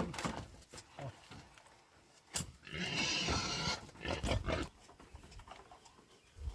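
A pig squealing harshly for about a second near the middle, with short knocks and scuffling noises around it.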